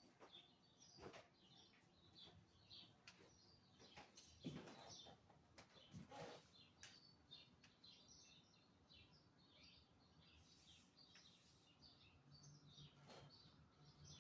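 Faint chirping of small backyard birds: many short, high chirps scattered throughout, with a few soft clicks or knocks in between.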